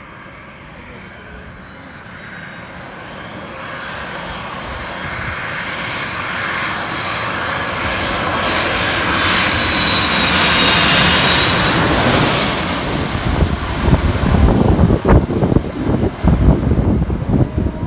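Airliner on landing approach passing low overhead. Its engines grow steadily louder, with a high whine that drops slightly in pitch, and peak about eleven seconds in. Then a deep rumbling roar follows that surges unevenly as the plane passes and draws away.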